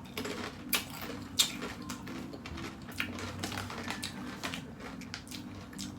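Crunchy snack being chewed close to the microphone: an irregular run of sharp crunches, the loudest two about a second in.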